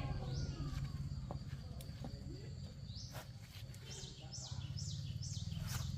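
A small bird chirping, a quick series of short, high, falling notes in the second half, over a steady low hum and a few sharp clicks.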